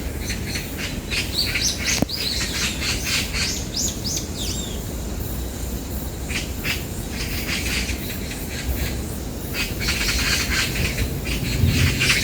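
A group of magpies calling as they fight over territory, with harsh chattering bursts that grow louder near the end, mixed with thin, quick chirps.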